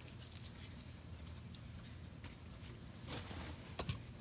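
Faint handling noises, light rustles and ticks, as small screws are set into a car door panel by hand, with two sharper clicks about three and four seconds in, over a low steady hum.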